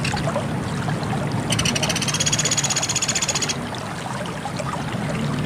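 Pelatuk beras woodpecker giving one rapid, high-pitched trill of evenly repeated notes about two seconds long, starting about a second and a half in, over a steady background hiss and low hum.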